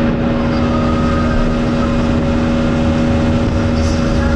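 Motorboat engine running at a steady speed: an even, unchanging hum over a heavy low rumble.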